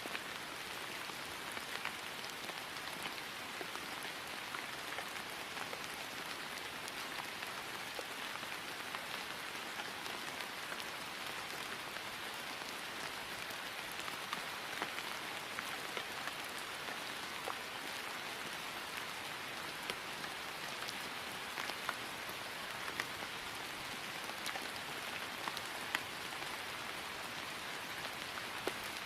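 Steady rain falling on grass, an even patter with scattered individual drop ticks.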